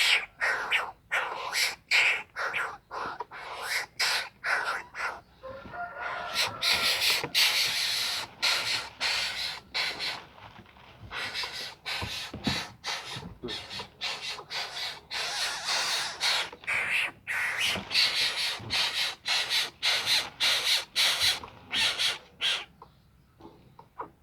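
A bird calling over and over in short, harsh, scratchy calls, about three a second, with a brief lull about ten seconds in and another near the end.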